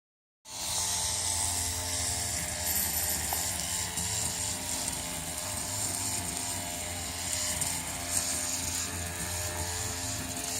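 A machine running steadily: a low hum with several steady tones and a high hiss over it, starting about half a second in.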